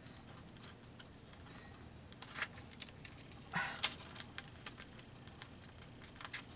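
Small light taps and clicks with two short rustles, about two and a half and almost four seconds in: paper cut-outs being handled and pressed down while gluing a collage.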